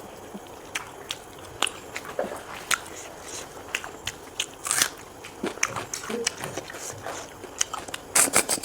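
Close-miked eating of snail and pork rib curry: biting and chewing with scattered short, sharp clicks and crackles, coming thicker near the end.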